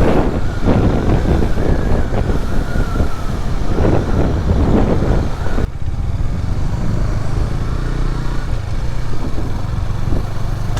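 Motorcycle on the move, with a noisy rumble and a wavering whine for the first half; just past halfway the rush dies down and a steady low engine hum remains.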